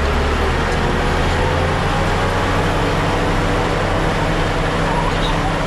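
Heavy diesel earthmoving machine engine running steadily under work, its low hum shifting slightly about two seconds in.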